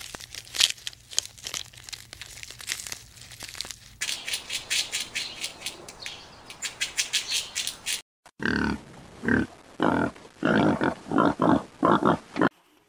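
Three short animal recordings in a row: a run of dry, repeated clicks, then a rapid squirrel chatter starting about a third of the way in, then a warthog grunting about ten times in quick succession near the end.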